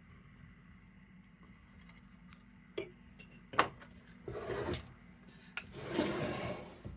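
Hands working on a radio chassis while threading a dial cord: after a quiet start, a few sharp clicks and knocks, then two stretches of rubbing and rustling.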